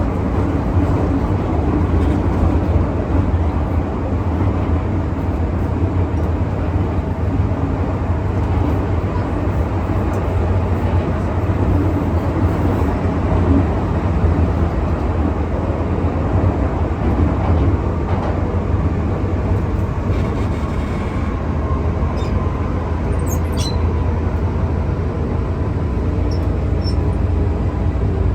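MTR M-Train electric multiple unit running at speed through the tunnel, heard inside the carriage: a steady loud rumble of wheels on rail with a faint hum of the traction motors.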